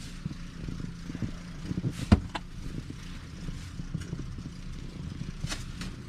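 An engine running steadily at idle, with a single sharp knock about two seconds in.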